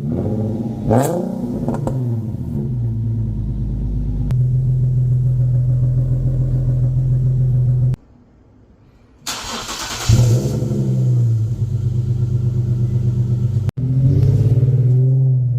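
Infiniti Q50's 3.7-litre V6 exhaust through a Remark axleback muffler delete: a short rev about a second in, then steady running. The sound breaks off briefly near the middle, then comes a hissing rush and another rise and fall in engine pitch, and a further rise near the end.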